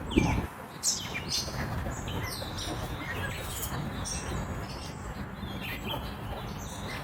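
Birds chirping, with many short high calls scattered throughout over a low rumble. A low thump comes just after the start and a smaller one a little under a second in.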